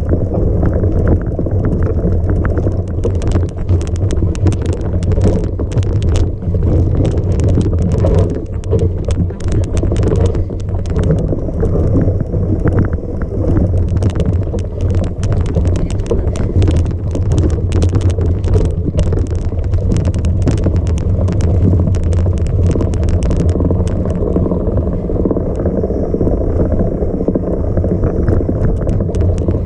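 Vehicle engine running steadily under a heavy low drone, with constant rattling and wind buffeting the microphone.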